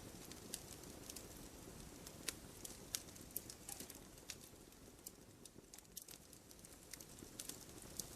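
Wood fire crackling in a fireplace, faint: irregular sharp pops and ticks, several a second, over a soft steady rumble of burning logs.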